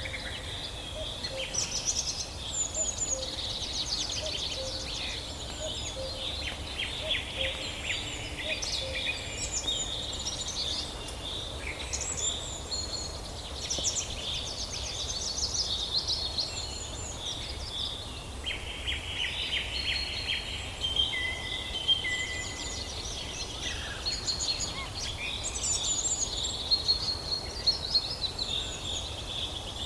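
Several songbirds singing and calling over one another in a forest chorus: chirps, fast trills and quick runs of repeated high notes, over a steady low background rumble.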